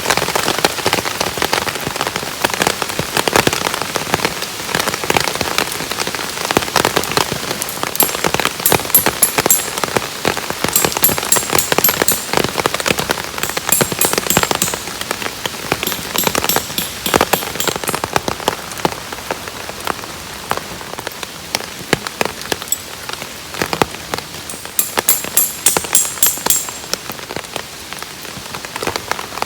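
Heavy rain falling, a dense, steady patter of drops striking a surface.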